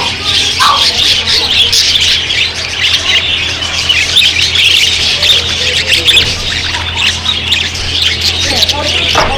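A flock of parakeets chattering and squawking: a dense, continuous jumble of many shrill calls, with a steady low hum underneath.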